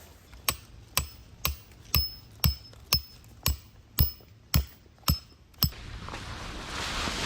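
Hammer driving a tent peg into the ground: eleven even strikes, about two a second, each with a short metallic ring. Near the end the strikes stop and wind noise on the microphone rises.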